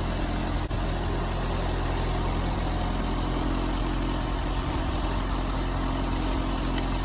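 Ford 8N tractor's four-cylinder side-valve engine running steadily in third gear while it pulls a chain-hitched tire drag.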